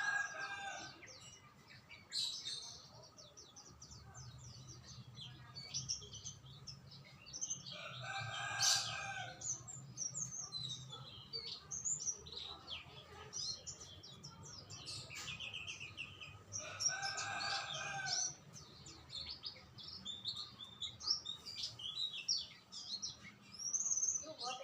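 Many small songbirds chirping and twittering continuously, with a louder, longer pitched call repeated three times about eight seconds apart.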